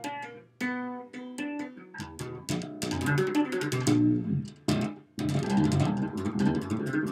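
Wolf KTB six-string fretless bass played through an amp in a run of quick tapped notes with sharp attacks. The notes come thicker from about three seconds in, with brief breaks near the start and about five seconds in.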